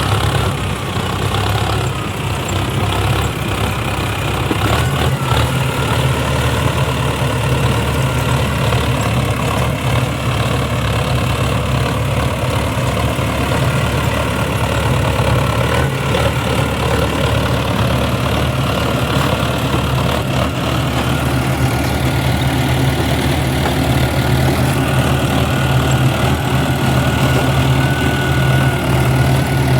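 Tractor diesel engine running steadily, its pitch dipping and recovering once about halfway through.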